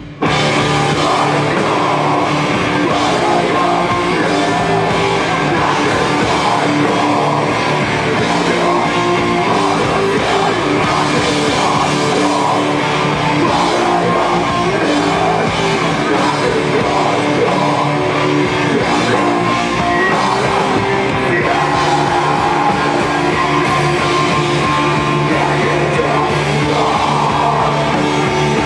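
Rock band playing live and loud, guitars and drum kit coming in together right at the start and driving on steadily.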